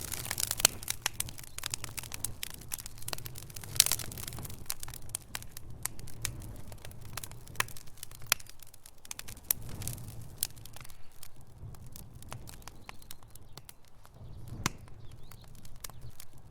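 Wood fire in a fireplace crackling: irregular sharp pops and snaps of burning logs over a low, soft rumble of flame, busiest in the first few seconds, with a loud pop about four seconds in and another near the end.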